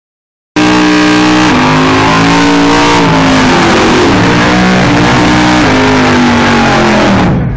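Drag car's engine revved hard through a tyre burnout, its pitch rising and falling as the throttle is worked. Very loud; it starts abruptly about half a second in and drops away sharply near the end.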